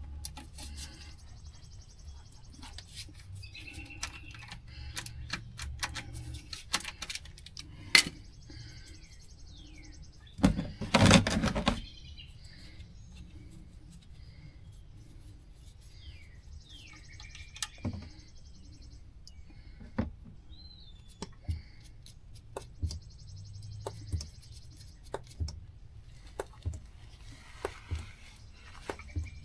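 Scattered clicks and clanks of tool work under a car as the oil drain plug is got at, with a louder scraping rush about ten seconds in. Birds chirp now and then in the background.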